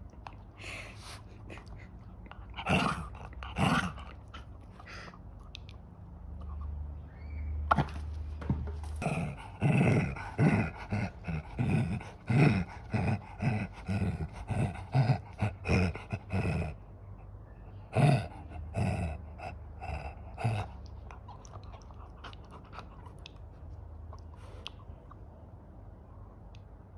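A senior dog making a run of short, repeated sounds, about one or two a second, through the middle, with a few single ones before and after.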